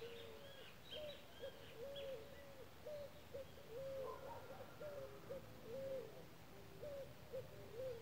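A bird's short, low hooting notes repeated irregularly, about two a second, with fainter high chirps in the first couple of seconds.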